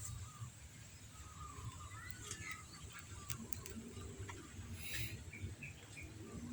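Faint, high, short chirps and twitters of a small sunbird, with a few sharp clicks, over a steady low background rumble.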